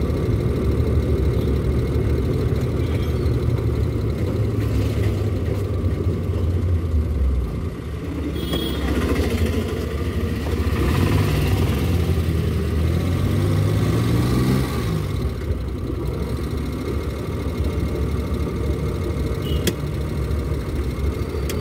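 Engine and road noise of a vehicle driving, heard from inside its cabin. About eleven seconds in, the engine note rises for a few seconds as it speeds up, then drops.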